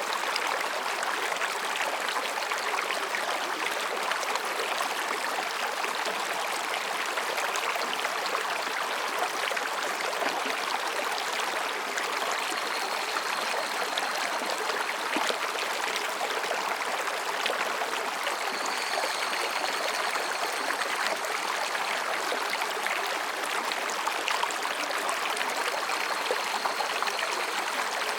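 Mountain stream babbling and rushing steadily over rocks. Faint, thin, high calls of higurashi cicadas come in about halfway through and again later.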